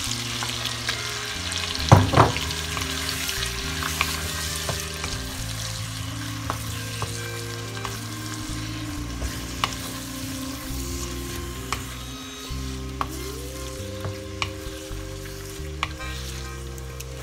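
Marinated chicken sizzling in melted butter in a nonstick frying pan as it is stirred with a wooden spoon, with scattered clicks and scrapes of the spoon and two louder knocks about two seconds in. Soft background music plays underneath.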